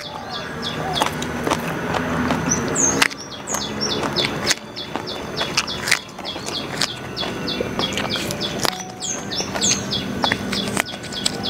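Close-miked crunching and chewing of raw vegetables dipped in sambal, with a few sharp crunches. Behind it a bird keeps repeating runs of short, quick high chirps.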